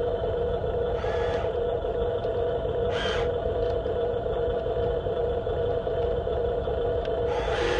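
Electric motors of a radio-controlled Huina construction model whining steadily on two close tones, with two brief noisy bursts about one and three seconds in.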